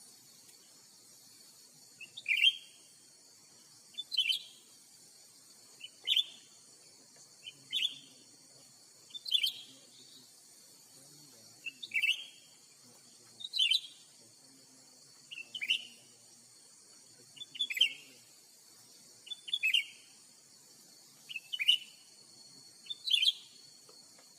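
Cucak ranting calling: a short, sharp call repeated at an even pace about every two seconds, the target bird (or the lure calling it) in a bird-trapping contest. Behind it runs a steady high insect drone.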